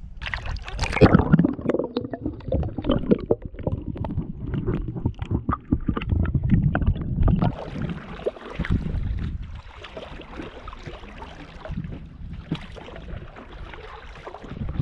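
Water splashing and gurgling against a sailboat's hull as it moves under way, in an irregular wash of quick splashes that is loudest in the first half and settles to a quieter rush after about eight seconds.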